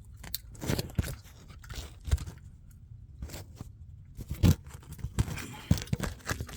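Irregular knocks, clicks and scrapes of metal parts being handled while a car's brake caliper and rotor are taken off, with two sharper knocks about four and a half and nearly six seconds in.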